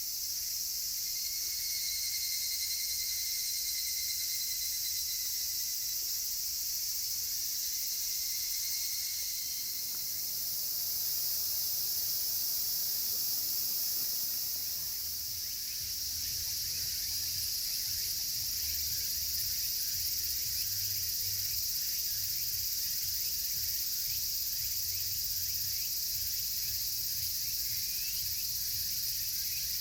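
Dense chorus of cicadas, a steady high-pitched shrilling, with a fainter higher call holding for several seconds near the start. Small, faint ticks and crackles from a wood campfire come through in the second half.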